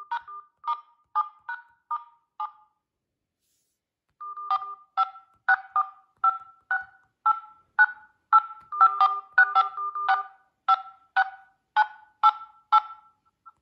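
Touch-tone (DTMF) keypad beeps from smartphone dialers as digits are typed in, each key press a short two-note beep. About six come first, then a pause of nearly two seconds, then a quicker run of some twenty presses, a few overlapping as two phones beep together.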